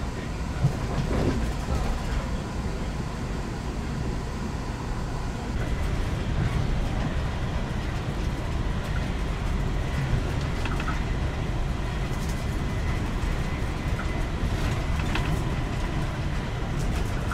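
Running noise inside the passenger car of an Amtrak Acela electric high-speed train in motion: a steady low rumble with faint steady tones above it. A single sharp click comes a little under a second in.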